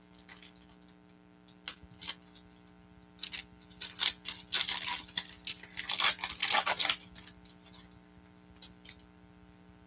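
Trading-card pack being crinkled and torn open: scattered small clicks, then a dense run of crackling in the middle few seconds, over a faint steady electrical hum.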